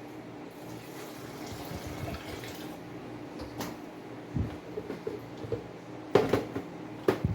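Ground corn mash being strained through a colander for canjica, with liquid trickling and dripping, and a few knocks of a utensil against the bowl or colander near the end.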